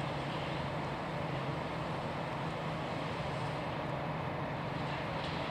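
Steady low drone and rumble of a coal train of covered hopper wagons at a coal terminal's loading bunker, with a constant low hum and no distinct knocks or changes.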